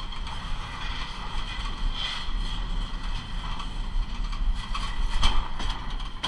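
Double-stack container well car of a moving freight train heard from on board: a steady low rumble under a continuous high metallic squeal, with scattered clanks of the car's steel, the loudest about two and five seconds in.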